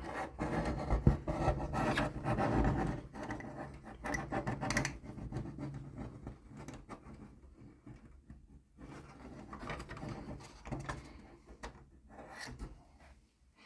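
Hands handling plastic model railroad track and small tools: irregular rubbing, scraping and light clicks, busier in the first few seconds and fainter after that.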